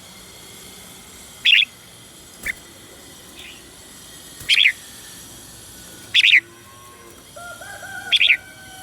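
Red-whiskered bulbul giving short, bright, loud calls every couple of seconds, four strong ones and one faint one. Fainter, lower, wavering calls from another bird come in near the end.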